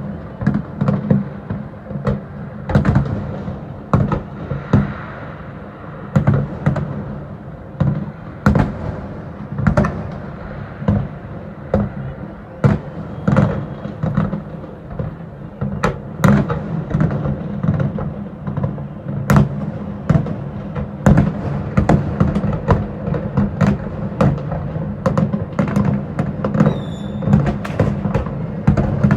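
A fireworks display bursting: a dense run of sharp bangs, often several a second, over a steady low rumble.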